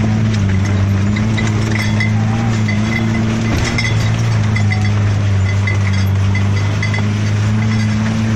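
Off-road 4x4's engine running at steady revs while driving through mud, heard from inside the cab. Light clicks and rattles sound over the engine note throughout.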